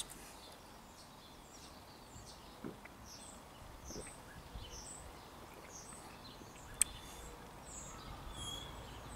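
Small birds chirping faintly in short, high notes, with one sharp click about seven seconds in.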